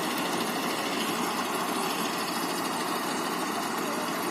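Volkswagen Kombi engine running steadily at idle.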